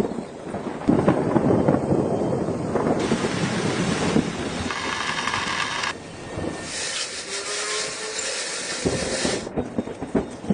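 Two long bursts of hissing, like a jet of air or spray, over rattling and clattering from work on parts.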